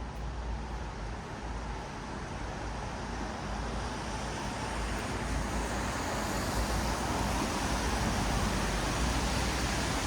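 Traffic on a wet city road: tyres hissing on rain-soaked asphalt with a low engine rumble beneath, the hiss swelling in the second half as a vehicle draws closer.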